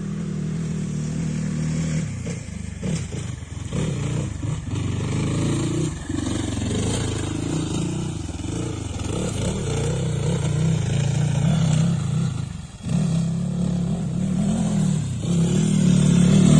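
Off-road motorcycle engine pulling over a rough, rocky track, the throttle rising and easing off several times, with brief drops around three, six and thirteen seconds in.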